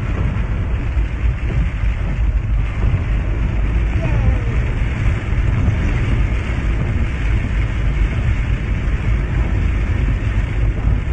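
Heavy rain falling in a steady dense hiss, with a strong low rumble underneath.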